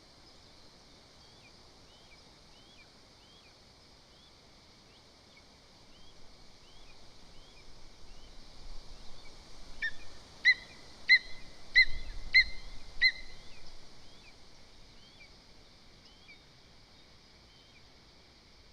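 Lesser spotted eagle at the nest giving five loud, evenly spaced yelping calls about two-thirds of the way through, over a swell of rustling and buffeting at the nest microphone. A small songbird's short rising chirps repeat about once a second in the background.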